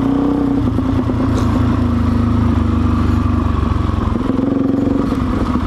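Suzuki DR-Z400's single-cylinder four-stroke engine running steadily under way, with a deep low rumble that swells about half a second in and eases off around four seconds.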